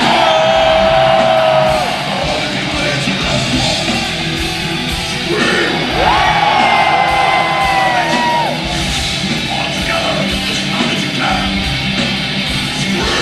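Melodic death metal band playing live: distorted guitars and drums, with long held, gliding melody notes near the start and again midway. The recording is made from within the crowd, and the crowd yells along.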